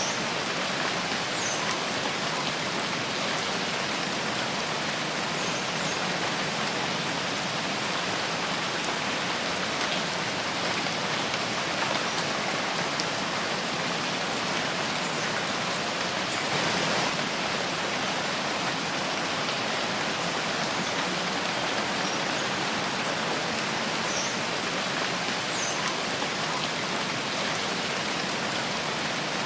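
Steady rain falling in a forest: an even hiss of many drops, with a brief swell in intensity about seventeen seconds in.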